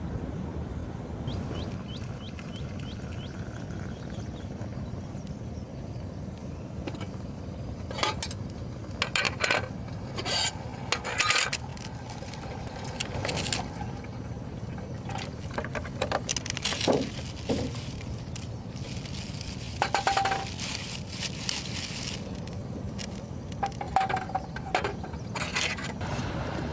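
Cookware and utensils clinking, knocking and scraping in irregular bursts, with a few short metallic rings, over a steady low rumble of surf and wind.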